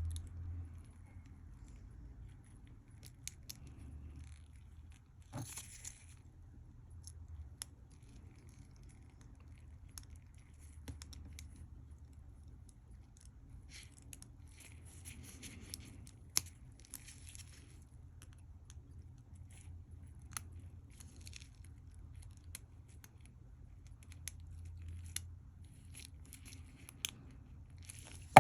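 Faint, scattered clicks and light scratching as tiny watch parts and a small screwdriver are handled and fitted, over a low steady hum.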